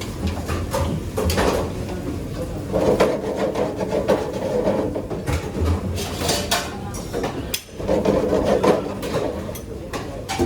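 Kitchen work clatter: repeated knocks, scrapes and rattles of utensils, dishes and a wooden board being handled.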